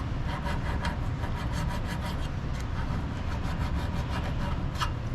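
Rust and buildup being scraped by hand off a Subaru Forester's front brake caliper bracket, in quick repeated strokes, several a second.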